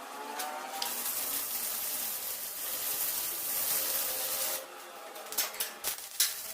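Electric arc welding on steel door hinges: a steady frying hiss, then broken crackling and pops for the last two seconds.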